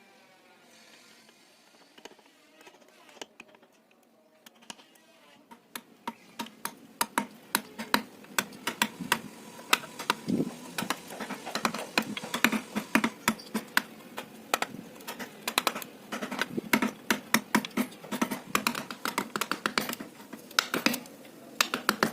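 Rapid, irregular light taps of a mallet driving a carving chisel into teak wood, beginning about six seconds in after a quiet stretch.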